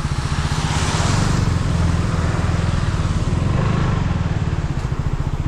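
Motorcycle engine running steadily, with a rapid even pulse as the bike rides on a wet road. A rush of hiss about a second in.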